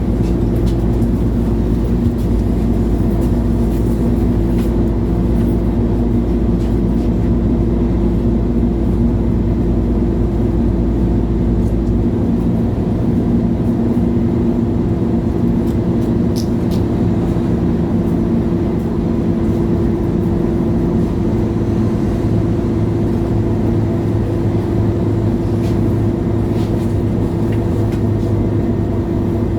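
MAN Lion's City G articulated city bus under way, its diesel engine and drivetrain making a steady low drone from inside the passenger cabin. The deepest part of the drone changes about twelve seconds in, and a new low tone comes in after about twenty seconds.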